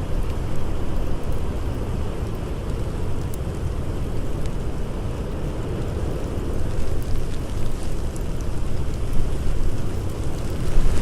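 Blizzard wind blowing steadily, with a deep low rumble and gentle swells in loudness. Faint, scattered crackles of a campfire run through it.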